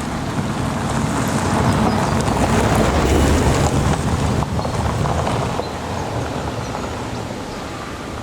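Steady rain with a low rumble of thunder that swells about a second in and eases off past the halfway point.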